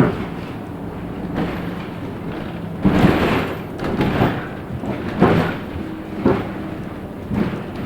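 Cabin of a LiAZ 6213.65 articulated city bus under way: a steady low drive hum with irregular knocks and rattles from the body and fittings, spaced about a second apart, loudest from about three seconds in.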